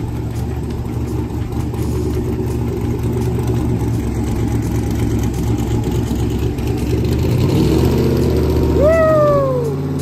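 Twin-turbocharged 6.0 V8 in a 1941 Chevy pickup running on a chassis dyno, its engine note building in loudness over the first eight seconds or so. Near the end a high whistle sweeps up and falls away as the level drops off.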